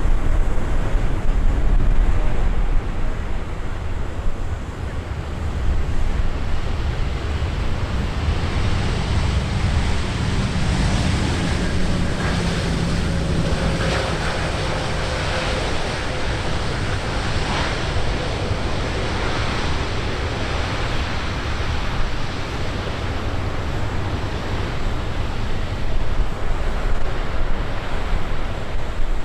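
Jet airliner engine noise, a broad rush that swells in the middle and then eases off, with a faint tone sliding slowly downward as the aircraft passes. Wind buffets the microphone with a low rumble throughout.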